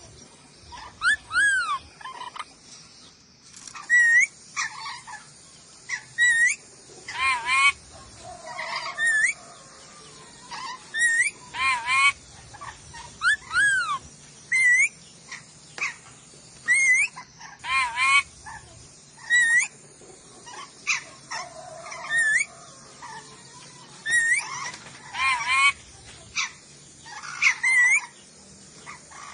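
Nuri dora parrot of Sulawesi calling over and over: short shrill screeches and arching whistled notes, one every second or two.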